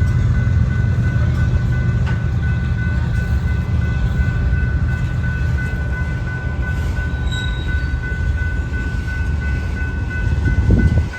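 BNSF freight train rolling through a rail yard: a steady low rumble with a thin, steady high whine over it. A brief louder thump comes near the end.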